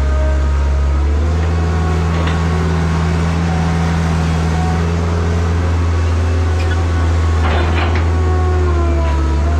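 Diesel engine of heavy earthmoving equipment running steadily, with a whine above it that bends a little in pitch. A brief clatter comes about seven and a half seconds in.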